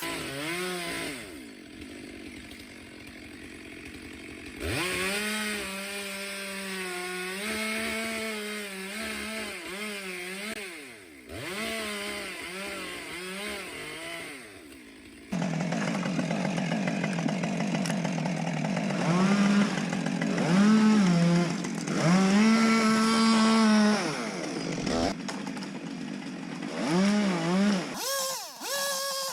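Petrol chainsaw cutting wood, its engine revving up and falling back in repeated surges. The sound changes abruptly about halfway through, as a second stretch of sawing begins.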